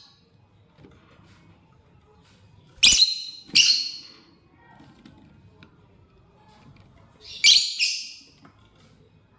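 Lovebird giving loud, shrill, harsh calls in two quick pairs, about three seconds in and again about seven and a half seconds in.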